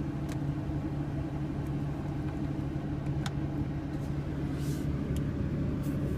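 Steady low hum of the BMW M4's 3.0-litre twin-turbo inline-six idling, heard from inside the cabin, with a few faint clicks.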